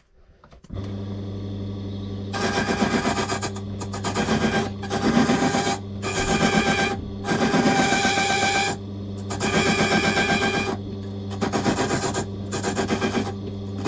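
A key-cutting machine's motor starts about a second in and runs with a steady hum, while its cutter grinds into the bits of a safe lever-key blank in a string of short passes with brief pauses between. The cuts are made by just touching the blade to the cutter and drawing it along, since the blank has no side cut to hold its depth.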